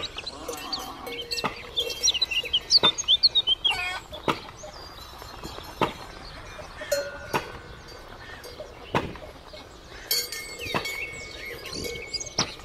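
Cowbells on grazing cows clanking at intervals of about a second and a half, some strokes leaving a short ringing tone, with birds chirping throughout.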